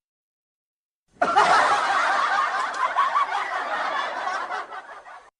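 People laughing, starting about a second in and lasting about four seconds, growing gradually fainter before cutting off abruptly.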